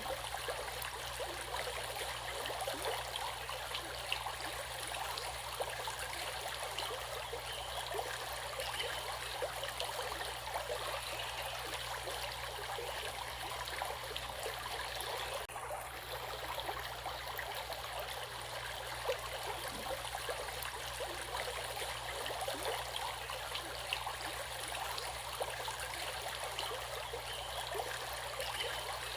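Flowing stream water, a steady rush full of small trickles and splashes.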